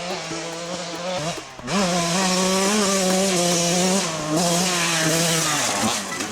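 TM 125 two-stroke motocross engine revving high as the bike is ridden. The throttle is shut briefly about a second and a half in, then opened again, and the engine runs loud until it eases off near the end.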